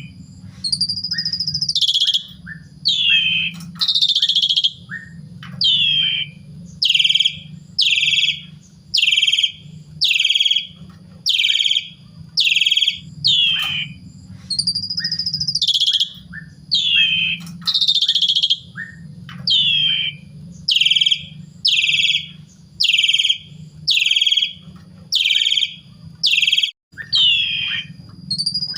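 Asian pied starling (jalak suren) singing loudly and steadily: a run of falling whistled notes about once a second, broken now and then by a longer, held whistle. A steady low hum runs underneath.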